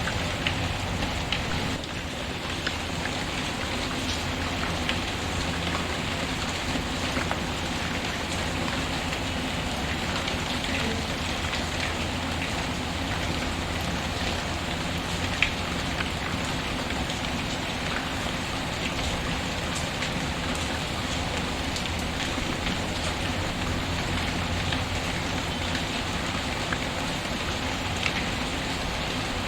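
Steady rain falling, mixed with a crackling wood fire that gives scattered small pops, including one sharper pop about halfway through.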